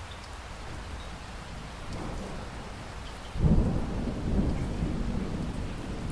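Steady rain with a rumble of thunder that breaks in suddenly about halfway through and keeps rolling to the end.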